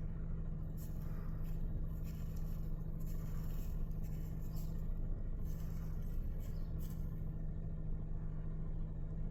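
Steady low hum of a car's idling engine inside the cabin, with a few faint clicks and rustles of handling scattered through it.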